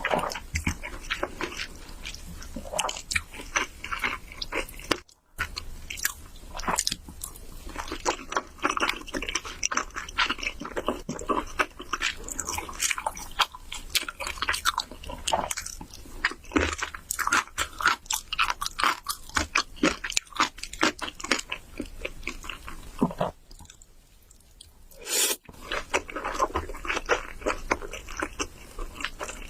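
Close-up eating sounds: a person biting and chewing food, a dense run of short, crunchy, wet clicks that goes briefly quiet about five seconds in and again for a couple of seconds near the end.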